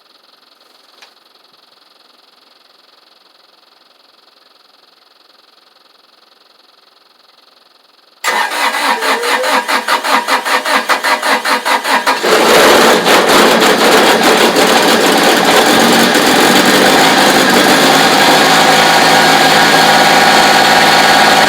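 After about eight seconds of quiet, the starter cranks the Kubota BX1870's three-cylinder diesel in a pulsing rhythm for about four seconds before it catches and settles into a steady run. This is a cold start at 26 °F with no block heater, on the original battery.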